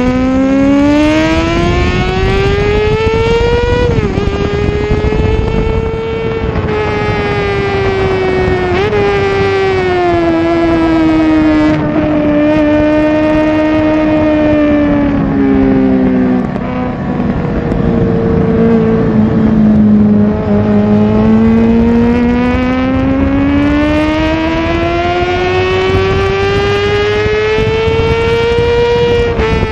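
High-revving motorcycle engine running hard. Its pitch rises and falls as the throttle changes, with a sudden drop about four seconds in and again about nine seconds in, then a long slow dip and climb.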